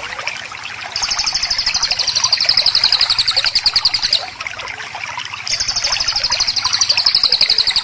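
Songbird giving a rapid, harsh trill of high notes in long bouts. It breaks off for a second about four seconds in, then starts again, with softer bird chirps underneath.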